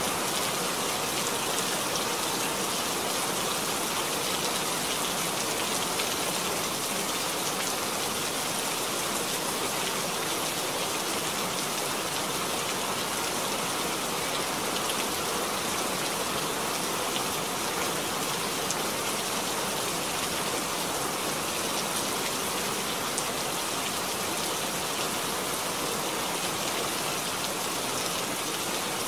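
Steady rain: an even hiss of many drops with small ticks of single drops landing.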